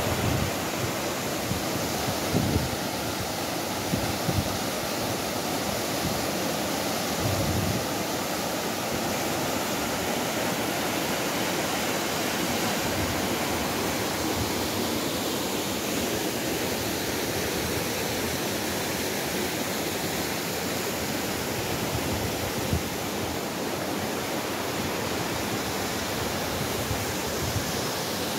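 Waterfall's steady rush of falling water, an even unbroken roar.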